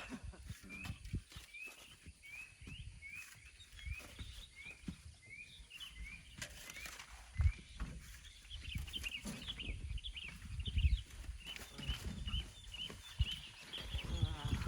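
A bird calling repeatedly with short rising notes, about two a second, giving way after the middle to quicker, higher chirping, over irregular low thumps and rumble.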